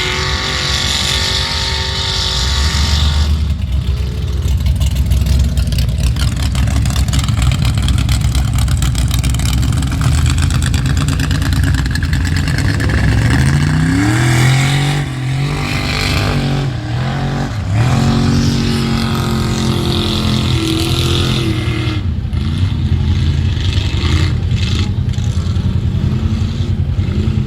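Mud-bog truck engine running loud and being revved hard. Its pitch climbs steeply twice in the middle and then drops back.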